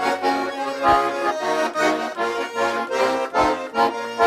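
Russian garmon (button accordion) playing an instrumental passage between sung verses: a chordal melody over bass notes, with a few short low thuds.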